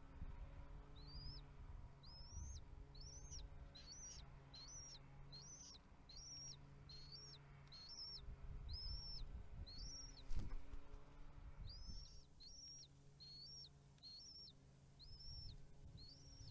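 A bird's high call repeated about twice a second, each call rising quickly and then holding, with a brief pause around ten seconds in. A low rumble runs underneath, and there is a single knock near the pause.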